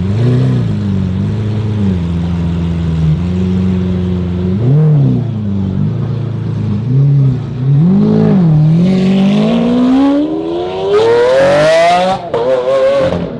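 Car engine idling, blipped in a few short revs, then revved in one long climb to high revs near the end before dropping back.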